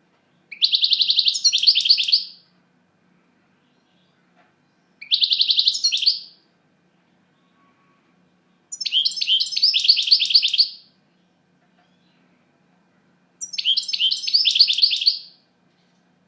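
European goldfinch singing: four bursts of rapid, high twittering song, each lasting about two seconds, with pauses of a few seconds between them.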